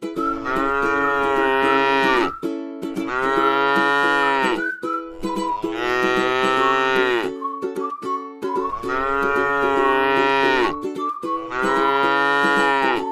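A cow mooing repeatedly: about five long, drawn-out moos, each falling in pitch at the end, with short pauses between. Light plucked-string background music plays underneath.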